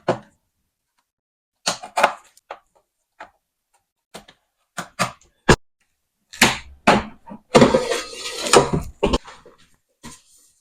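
Handling an air fryer and its packaging: scattered knocks and clicks of plastic parts being moved, with about a second and a half of denser scraping and rustling near the end as the protective wrapping comes off.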